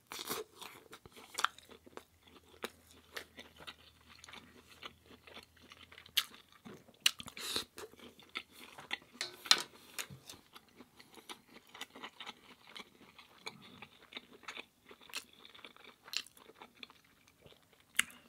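A person chewing and biting food close to the microphone, with irregular crunches and mouth clicks; the loudest bites come about 7 and 9.5 seconds in.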